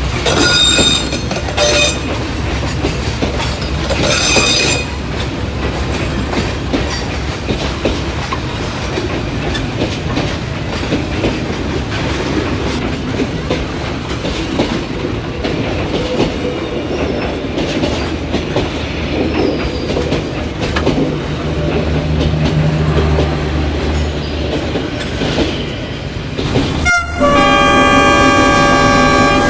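Train running with a steady rumble and clickety-clack, sounding short horn blasts near the start and again about four seconds in. After an abrupt cut near the end, a long steady horn blast sounds.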